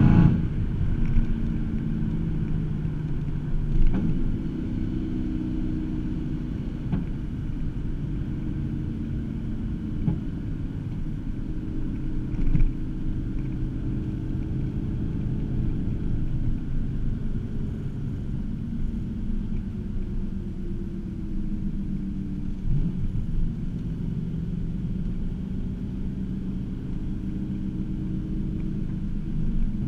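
Inside the cabin of a 2009 Cadillac CTS-V, its supercharged 6.2-litre V8 drones steadily at a light cruise through catless Kooks headers and an X-pipe into the stock mufflers. Its pitch drifts gently up and down, with a few brief bumps along the way.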